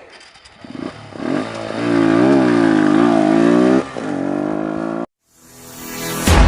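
Motorcycle engine revving, its pitch rising and falling several times, then cutting off abruptly about five seconds in. A rising whoosh follows near the end.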